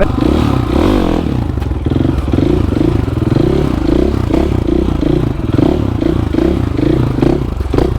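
Supermoto motorcycle engine running close by, its note swelling and dropping in quick regular pulses as the throttle is worked.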